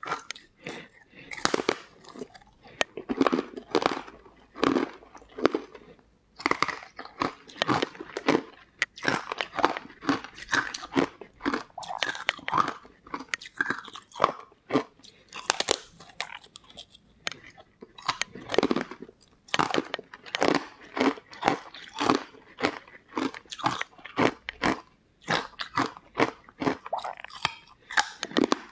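Close-miked eating: biting into and chewing a crumbly green powdery slab, a rapid run of crunches and mouth sounds, several a second, with brief pauses.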